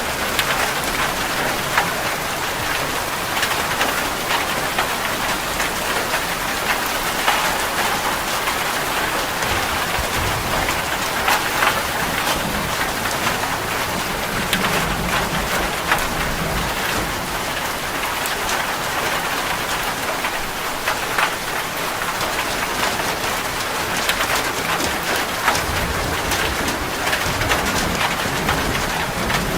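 Steady rain falling, an even hiss dotted with many individual drops ticking on a hard surface close by.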